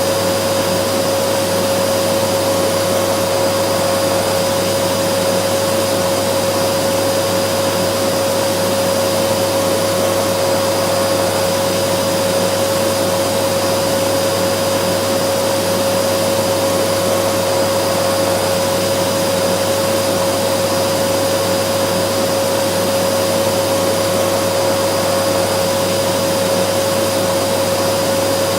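Vacuum cleaner running steadily: an even rush of air with one steady whine over it.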